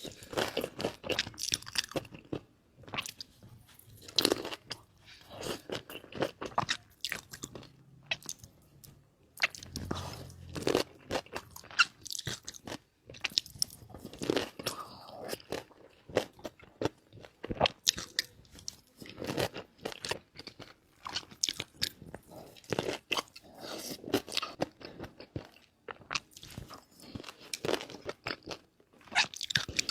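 Close-miked eating: biting and chewing with wet crunching and crackling, in irregular clusters with short pauses.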